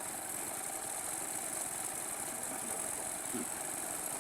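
A steady machine running noise with a constant high hiss, even and unchanging throughout.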